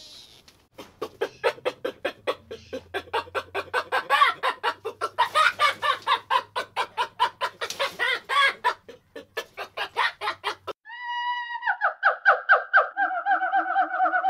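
Animal calls: a long run of short, quickly repeated calls, several a second. About eleven seconds in it gives way to a higher, more tuneful call, pulsing rapidly on a steady pitch.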